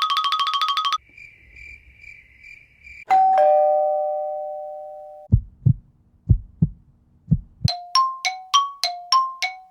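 A string of stock sound effects. A rapid, buzzing ring cuts off after about a second and gives way to faint pulsing beeps. About three seconds in, a two-note chime rings and slowly fades. Low thumps follow in pairs like a heartbeat, then a quick run of short two-note dings, about three a second.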